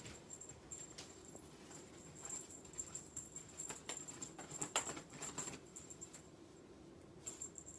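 Faint scattered taps and rustles of a Ragdoll kitten being pestered by hand, the sharpest tap a little under five seconds in, over a faint steady hum.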